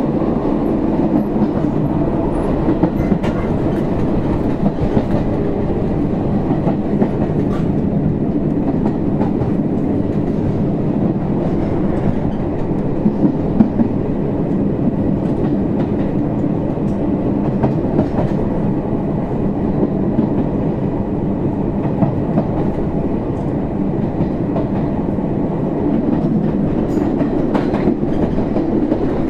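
Izuhakone Railway Sunzu Line electric train, car 7301, running between stations, heard from inside the car: a steady rumble of wheels on rail with scattered faint clicks.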